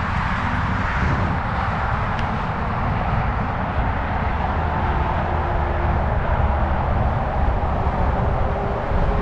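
Wind rushing over the microphone and the tyres rumbling over the trail while a Zota Zephyr fat-tyre e-bike is ridden at speed. A faint steady whine sits underneath and rises slightly near the end.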